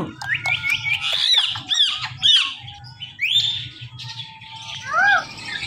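Ringneck parrot squawking: a quick run of short, high, arched calls, then a rising call, and one more call near the end.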